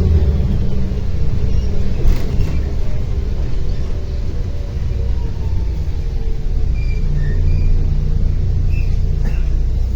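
Interior sound of a MAZ-105 articulated city bus under way: a loud, low engine rumble that drops about two seconds in and builds again from about seven seconds in, with a few light knocks and rattles.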